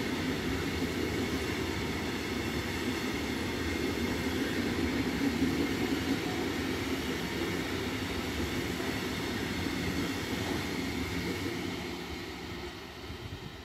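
Freight train of tank wagons rolling past close by: a steady rumble of wheels on rail that fades near the end as the last wagons go by.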